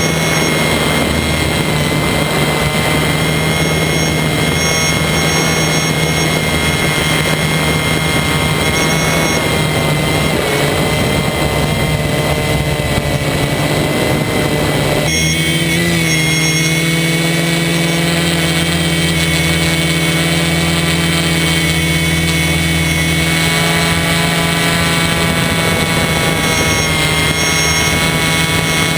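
DJI F450 quadcopter's electric motors and propellers running in flight: a steady buzzing drone made of several tones over a rushing noise. About halfway the rushing noise drops away, leaving a cleaner, steadier hum.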